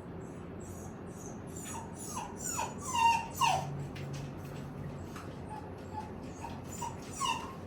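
A dog whining in a series of short, high, falling whimpers, loudest about three seconds in, with a few softer ones near the end.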